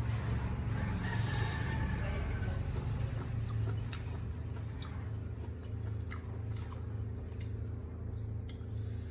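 Close-up eating sounds of boiled octopus: wet squelches, smacking and chewing as tentacles are pulled apart and bitten, heard as scattered short clicks with a brief slurp about a second in. A steady low hum runs underneath.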